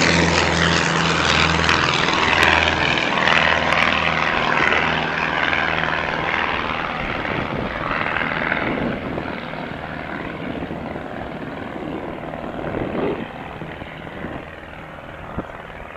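Light propeller aircraft engine running at high power, its sound fading steadily as the plane moves away.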